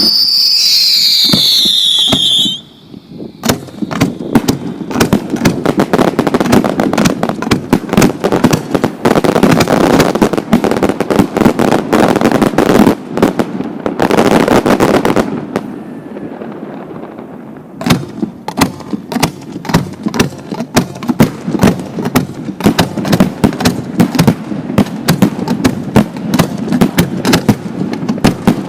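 Fireworks display: a loud bang with a whistle falling in pitch for a couple of seconds, then a dense barrage of rapid sharp bangs and pops. The barrage eases briefly a little past halfway and picks up again with quick repeated pops.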